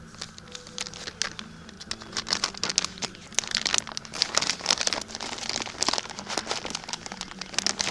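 Plastic bag crinkling and rustling as it is handled, in quick irregular bursts that get busier partway through, over a steady low hum.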